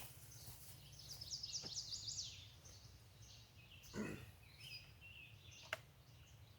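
Faint wild bird song: a quick run of repeated high falling notes about a second in, then scattered softer chirps. A brief lower sound comes around four seconds in, and a single sharp click near the end.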